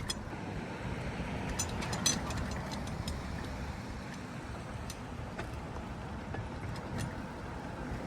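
Steady rolling noise of a bicycle ride on pavement, with scattered sharp clicks and rattles, the sharpest about two seconds in.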